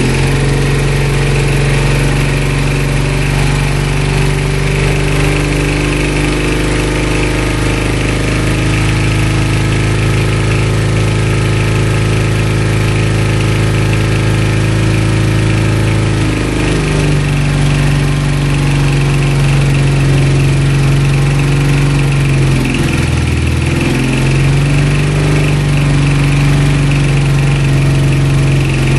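CJ750 sidecar motorcycle's air-cooled flat-twin engine idling cold on choke, just after its first start. The idle is steady but shifts speed about halfway through and sags briefly a few seconds later.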